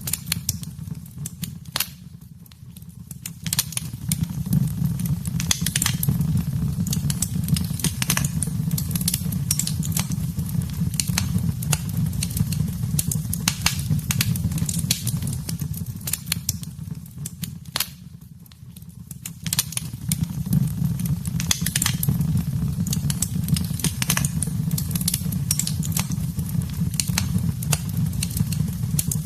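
Wood fire in a fireplace crackling, with frequent sharp pops over a steady low rumble of the flames. The sound dips and thins out twice, about two seconds in and again past the middle, before the crackling picks back up.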